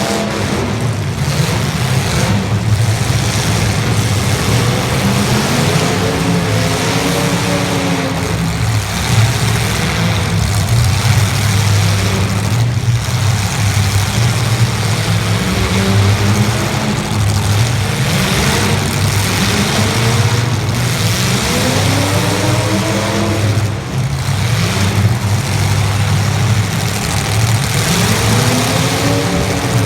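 Engines of several 1980s stock demolition derby cars running together, a steady low drone with engines revving up and down every few seconds.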